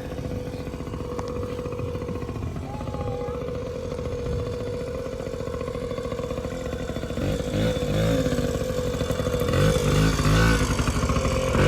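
Yamaha PW50's small 49cc two-stroke single-cylinder engine running steadily, getting louder from about seven seconds in.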